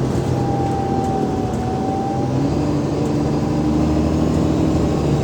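Cummins ISL diesel engine of an Alexander Dennis Enviro500 MMC double-decker bus running steadily under way. A faint whine sits over it for the first couple of seconds, and the engine note dips briefly before rising again.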